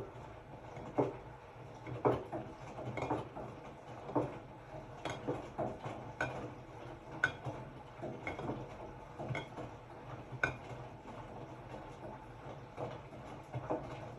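Hotpoint-Ariston RSG 825 J washing machine turning its load: a steady low motor hum under irregular knocks and clinks, about one a second, as the drum tumbles.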